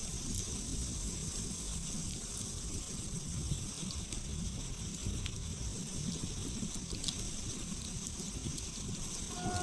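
Wood campfire burning, a steady low rush of flames with a few faint crackles and pops. A short tonal sound begins near the end.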